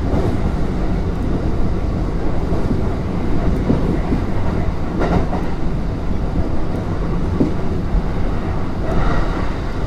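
Kintetsu 3200 series electric train running between stations, heard from on board: a steady rumble of wheels on rail with a few faint clicks.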